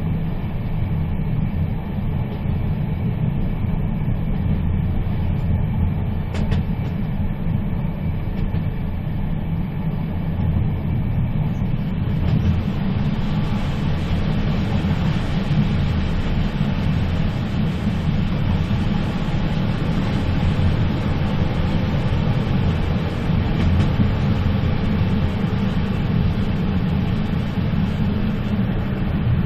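Moving train: a steady low rumble of wheels running on the rails. About twelve seconds in, a brighter hiss joins and stays, and there is one brief click near the six-second mark.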